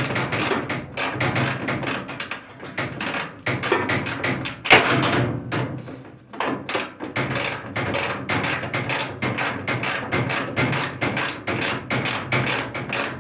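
Rapid, steady tapping and knocking, several strikes a second, with one louder bang about five seconds in.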